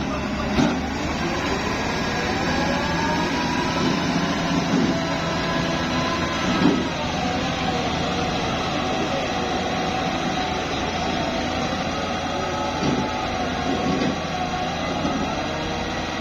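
Heavy diesel construction machinery running steadily, with a whine that climbs over the first few seconds and drops about six seconds in, and a few short clunks.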